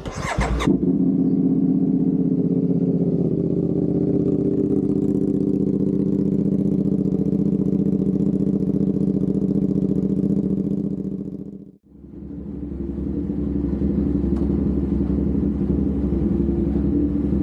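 CFMOTO 450SR parallel-twin engine on a cold start: the starter cranks for under a second, the engine catches and settles into a steady idle. About twelve seconds in, the sound briefly fades out and comes back.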